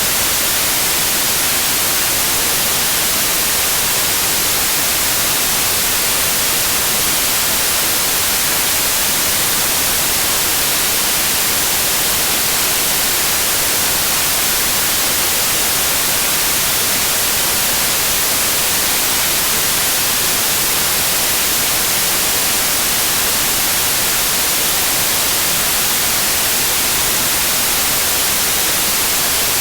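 Continuous white noise: a steady, unchanging hiss, strongest in the high treble.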